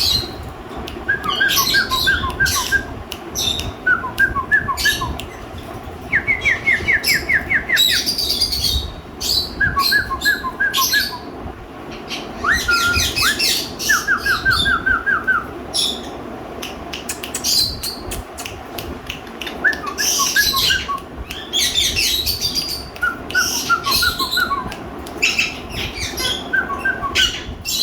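Pet parakeets squawking and chirping, with harsh cries mixed with quick runs of short, evenly spaced whistled notes that come again and again.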